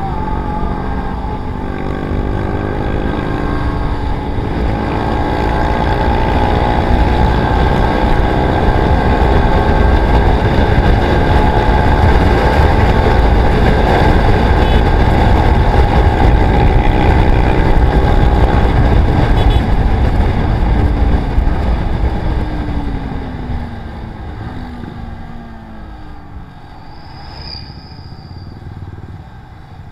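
Motorcycle engine running hard at speed under heavy wind rush, the sound building over the first several seconds and holding high. After about twenty seconds it eases off, the engine note falling as the bike slows.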